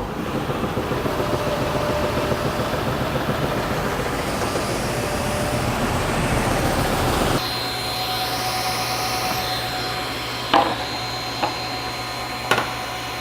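A thickness sander taking a light pass off a board for about seven seconds, then running on without load with a steady hum and whine; a few short knocks come near the end.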